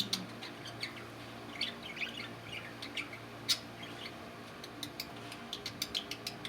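Budgies chirping and chattering in short, high, irregular calls, one sharper squeak about halfway through.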